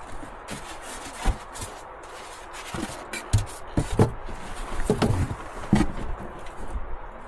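A handful of irregular knocks and thuds, spaced unevenly about a second apart, over a steady background hiss.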